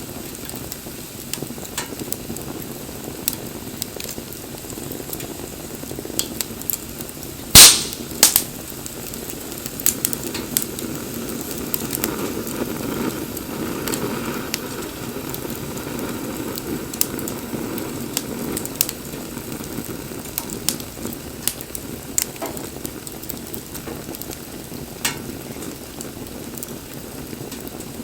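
Wood bonfire burning: a steady low rush of flame with scattered crackles and pops, and one loud, sharp pop about seven and a half seconds in.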